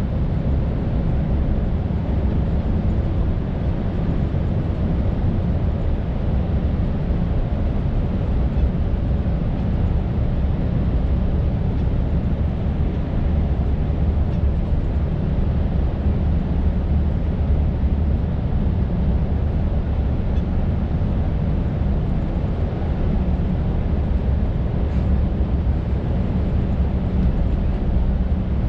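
Scania R580 truck's V8 diesel engine running steadily while driving, a constant low rumble with road noise, heard from inside the cab.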